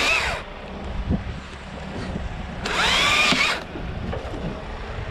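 Chainsaw revved twice in short bursts, its pitch rising and falling each time, the first right at the start and the second about three seconds in, with low wind rumble between.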